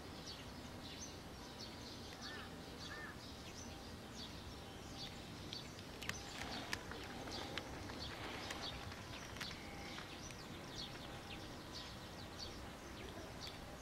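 Faint outdoor ambience with small birds chirping over and over: short high calls every second or less, over a low background hiss.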